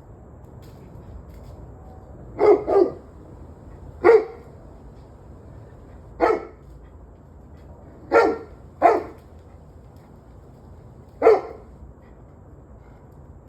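A dog barking: seven short barks at uneven intervals, two of them in quick pairs, over a steady low background hum.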